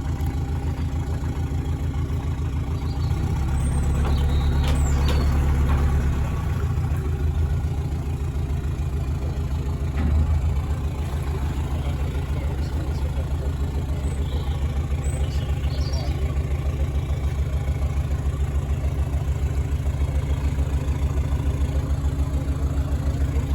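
Canal boat's engine running steadily with an even, low pulse. It runs louder for a few seconds about four seconds in, with a brief surge near ten seconds.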